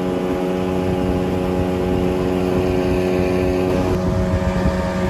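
Jet boat engine running steadily at an even throttle, cruising upriver, with rushing water and wind noise underneath.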